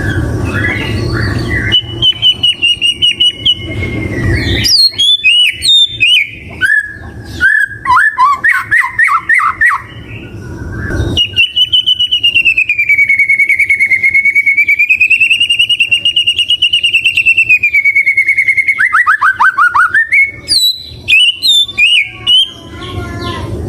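White-rumped shama singing: quick runs of varied whistles, chirps and trills, then a long wavering whistle held for about seven seconds that ends in a quick falling run of notes, then more short phrases.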